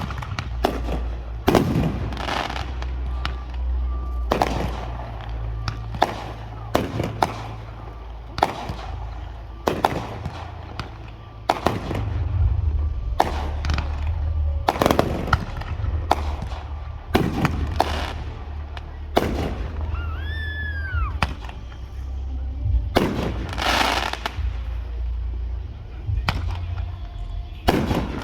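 Aerial fireworks going off one after another, a sharp bang every second or two, some trailing into crackle. A short whistle rises and falls about twenty seconds in.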